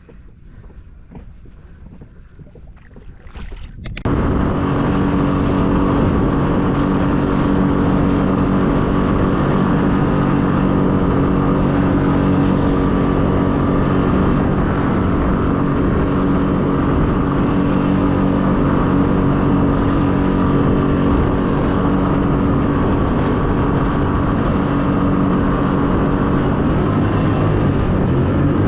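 Boat motor starting suddenly about four seconds in and then running steadily and loudly, after a few seconds of only faint wind and water.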